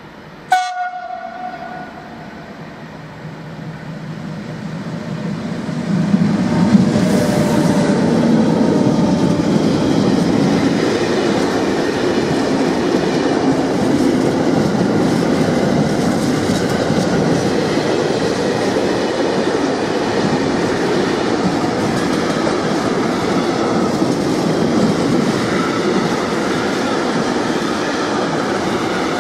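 A short blast on the horn of an E652 'Tigre' electric locomotive about half a second in. Then the rumble of the container freight train grows for a few seconds as it approaches, and the wagons clatter steadily on the rails as they roll past.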